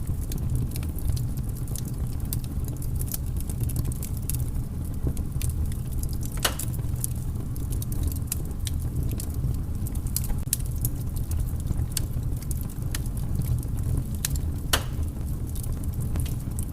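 Wood campfire crackling, with frequent sharp pops and snaps over a steady low rumble; two louder pops come about six and a half and fifteen seconds in.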